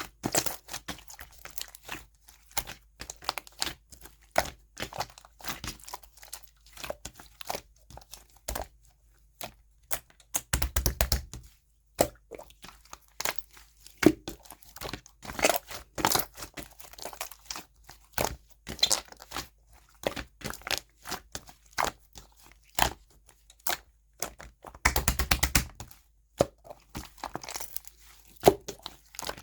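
Hands pressing and stretching clay-mixed slime, making a constant run of sticky clicks and crackling pops. Two denser crunchy bursts come about a third of the way in and again near the end.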